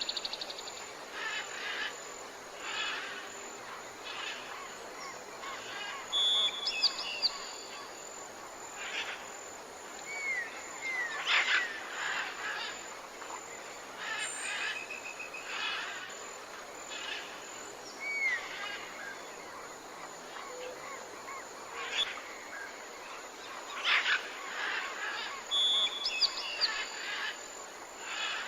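Several birds chirping and calling at intervals of a second or two. The calls include short curved whistles and a brief rapid trill that comes twice.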